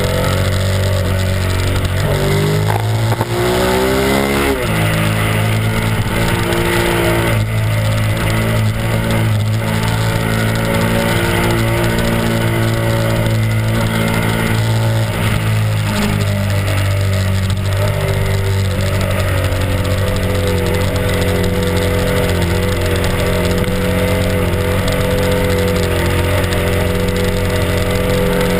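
Honda RC51's 90-degree V-twin engine running at cruising speed, with a rush of wind and road noise over it. About two seconds in the revs climb, then drop sharply at about four and a half seconds as on an upshift, and then hold steady.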